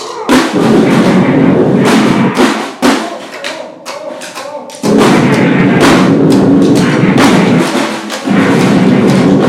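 Noise-grind band playing live: harsh, dense noise with drumming in loud blasts that stop and start. There is a quieter stretch near the middle and a brief break shortly before the end.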